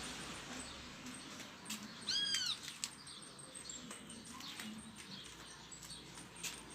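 One short, high-pitched cry from a small pet, rising then falling in pitch, about two seconds in, over faint ticks and rustles.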